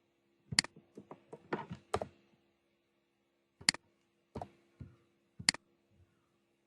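Computer keyboard keystrokes and mouse clicks: a quick run of clicks in the first two seconds, then single clicks every second or so, over a faint steady hum.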